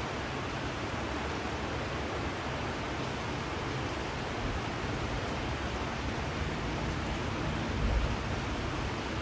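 Steady rain falling, an even hiss, with a short low rumble about eight seconds in.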